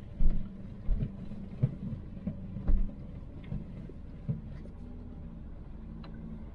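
2008 Volkswagen Touareg's V6 TDI diesel engine running at low speed, heard inside the cabin, with several irregular thumps and knocks as the vehicle rolls over the uneven sand track.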